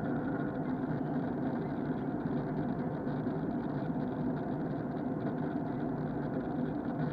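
Steady cabin noise of an Airbus A321 in flight: an even drone of engines and airflow heard from a window seat.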